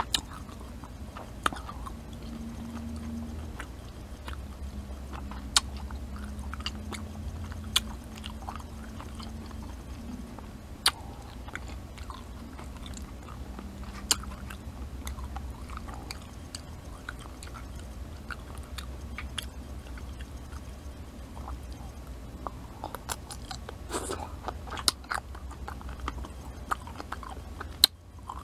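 Close-miked chewing of a crunchy pickle: wet crunches and sharp clicks from biting and chewing, scattered unevenly, over a low steady hum.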